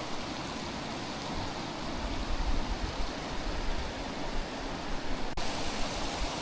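Steady rushing noise of rain and water at a weir pool, with wind gusting on the microphone from about two seconds in.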